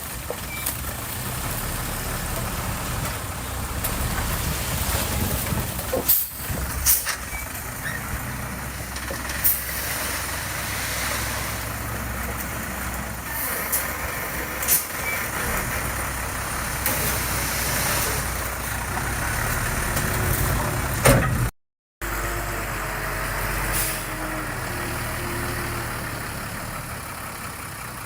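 Heavy diesel construction machinery running steadily under load, with sharp metallic clanks and knocks at intervals. The sound drops out for a moment about three-quarters of the way through, then the engine noise carries on.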